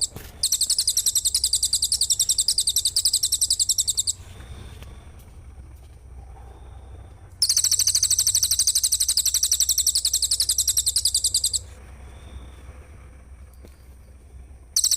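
A rapid, very high-pitched trill of dense, even pulses, the kind of fast 'tembakan rapat' run used in songbird-training recordings. It comes in three bursts of about four seconds each, starting and stopping abruptly, with quieter gaps between them.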